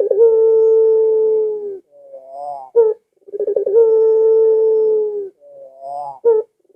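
Puter (Barbary dove) cooing in the long-drawn pelung style: a short rising lead-in, then a long, steady, slightly falling coo of about two seconds. The call repeats about every three seconds.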